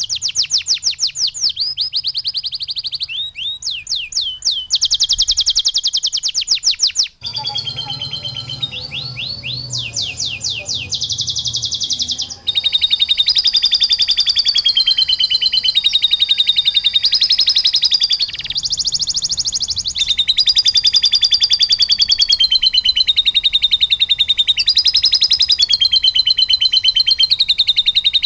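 Domestic canary singing long runs of fast, rapidly repeated trill notes, switching to a new trill every few seconds; a song stocked with phrases learned from a lovebird. The song changes abruptly about seven and twelve seconds in.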